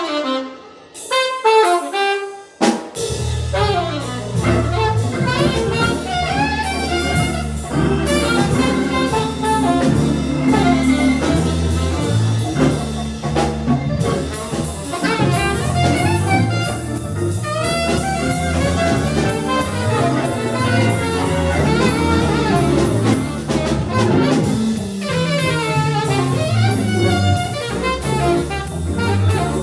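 Live small jazz band. A horn plays an unaccompanied melodic line for about three seconds, then bass and drums come in and the full band swings on with the horn over them.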